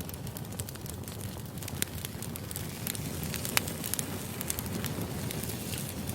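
Firewood burning: a wood fire crackling, with scattered sharp pops over a low steady rumble. The pops come more often in the second half.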